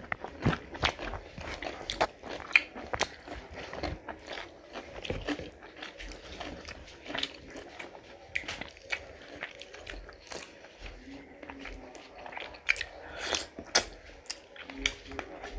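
Close-miked chewing and biting of two people eating rice and curry by hand: a rapid, irregular run of short mouth clicks.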